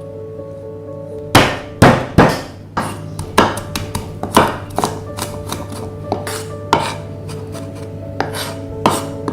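Irregular sharp knocks of kitchen utensils during food preparation, three loud ones close together about a second and a half in, then many lighter ones. Soft background music with sustained tones runs underneath.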